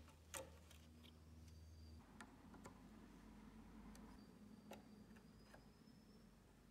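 Near silence with a low steady hum, one sharp click about half a second in, and a handful of faint, scattered ticks after it.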